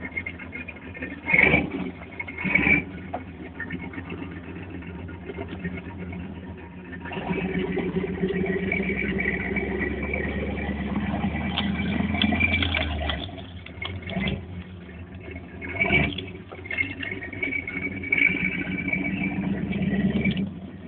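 Off-road 4x4's engine running at crawling pace over rocks, the low rumble swelling for several seconds in the middle as it pulls harder. A few short loud bangs punctuate it, early on and again later.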